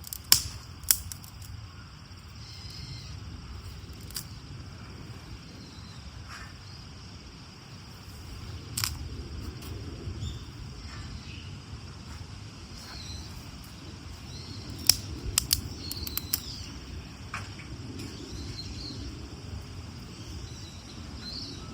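Faint bird chirps over a steady low outdoor rumble, broken by scattered sharp snaps and clicks from the campfire of damp firewood being tended. The loudest snaps come twice right at the start and in a quick cluster about three-quarters of the way through.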